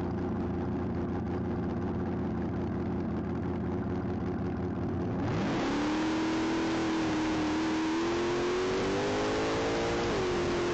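Nostalgia front-engine dragster's engine running at a steady low note, then about five seconds in it revs up sharply as the car launches on a test pass. A rush of wind and road noise rises with it. The engine pitch keeps climbing slowly and dips suddenly near the end.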